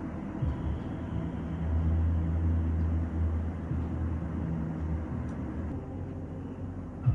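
Low, steady rumble played back through a home theatre speaker system, swelling for a second or two about two seconds in.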